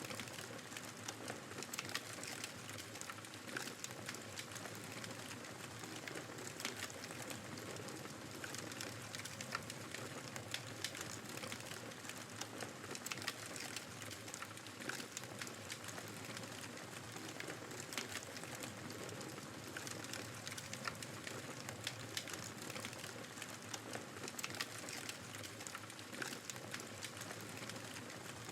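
Wood fire crackling in a fireplace, with frequent sharp pops and snaps, over a steady rushing of blizzard wind.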